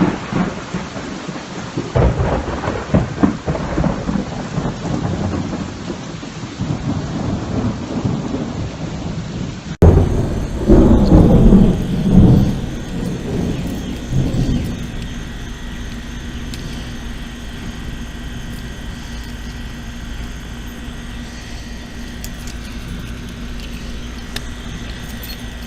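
Rain falling during a thunderstorm, with rolling thunder. About ten seconds in, a louder peal of thunder rumbles for several seconds and dies away. A steadier, quieter background with a faint hum follows.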